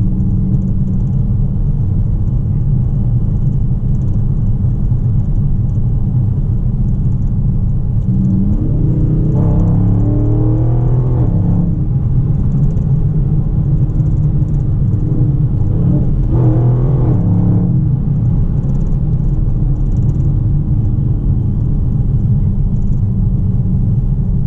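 Dodge Charger Scat Pack's 6.4-litre HEMI V8 running at a steady low drone. About nine seconds in, the engine note rises for a few seconds under acceleration, and it rises again more briefly about sixteen seconds in.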